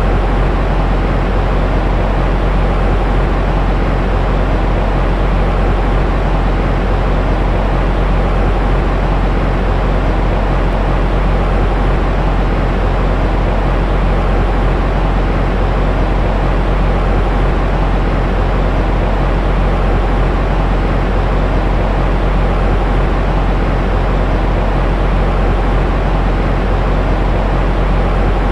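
Continuous white noise for lulling a baby to sleep: a steady, unchanging hiss weighted toward the low end, deep and rumbling, with little high hiss.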